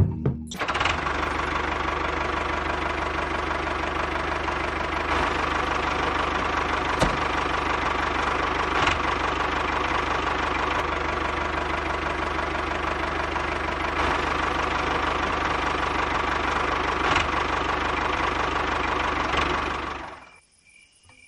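A small motor running steadily, with a fast even rattle and a few faint clicks; it cuts off suddenly near the end.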